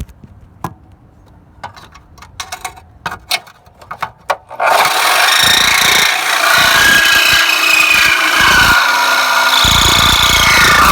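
A few light clicks and handling knocks, then about four and a half seconds in a corded electric saw starts and cuts steadily and loudly, its pitch wavering as it bites through the part.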